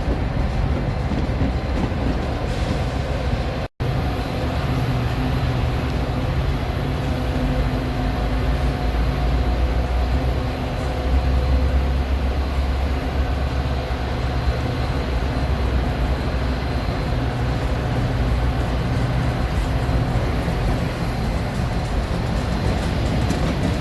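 A diesel train running past or idling, a steady low rumble with a few steady tones over it, a little stronger around ten to fourteen seconds in. The sound cuts out for an instant about four seconds in.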